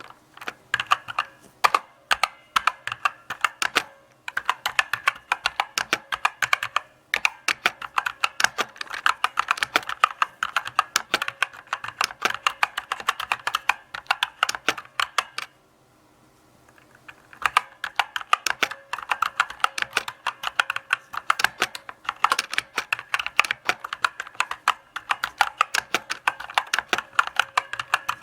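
Typing on a mechanical keyboard: steady runs of sharp key clicks, with a few short pauses and one longer break in the middle.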